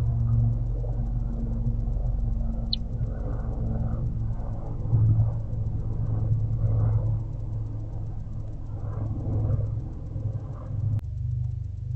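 Steady low rumble with soft scuffling and rustling picked up by a barn owl nest-box microphone, and one brief high squeak about a quarter of the way in. Near the end it cuts off suddenly and soft ambient music takes over.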